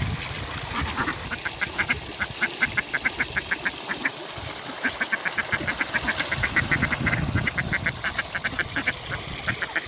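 Indian runner ducks quacking in long rapid runs of short quacks, about six a second, broken by brief pauses.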